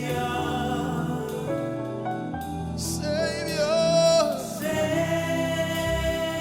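Live gospel worship music: sustained chords with a singer holding and bending a long note around the middle.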